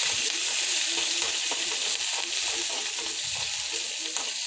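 Chopped onion, peanuts and roasted split chickpeas sizzling in hot oil in a metal kadhai, with a metal spoon stirring them and scraping against the pan. This is the onion just gone into the mustard-and-cumin tempering.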